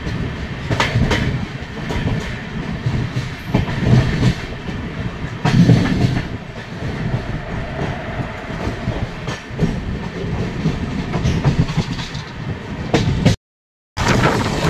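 Amrit Bharat Express passenger train running along the track: a steady rumble with the wheels clattering over rail joints in irregular clicks. The sound cuts out for about half a second near the end.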